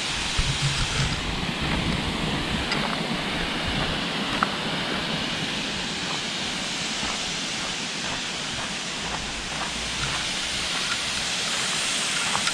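Waterfall rushing: a steady, even roar of falling water, with a few faint ticks on top.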